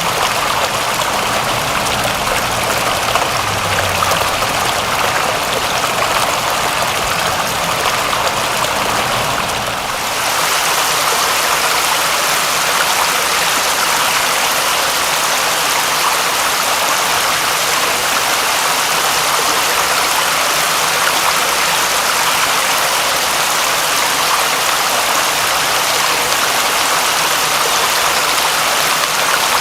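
Steady, heavy rain falling. About ten seconds in the sound changes abruptly: a low rumble underneath drops away and the rain turns brighter and hissier.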